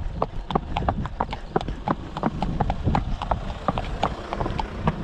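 Horses' hooves clip-clopping at a walk on a tarmac road: a quick, uneven run of sharp clacks from more than one horse.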